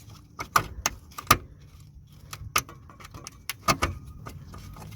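Parking-brake cable being worked out of its metal retaining clip under the car: a string of separate sharp metallic clicks and knocks at uneven intervals, the loudest about a second in, midway and near the end.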